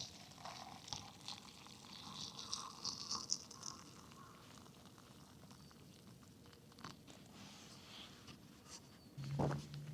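Crinkling and rustling of plastic food packaging, with a sachet being handled for the first few seconds, then quieter, and a soft knock near the end.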